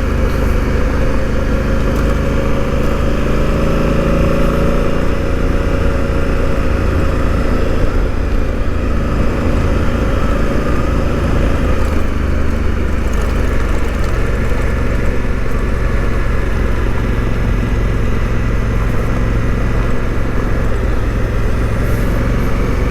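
Honda CRF1000L Africa Twin's parallel-twin engine running at a steady cruise as the motorcycle rides along the road, with road noise.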